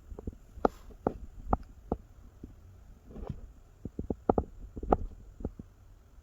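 Gusty wind buffeting the microphone: a low rumble broken by irregular short pops and knocks, the strongest about a second in and about five seconds in.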